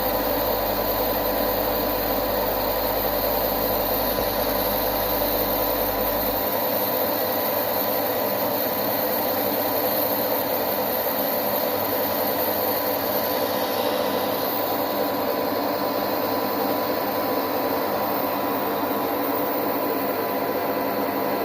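Metalworking machine tool running steadily, a dense mechanical noise with a held whine. A low hum under it stops about six seconds in.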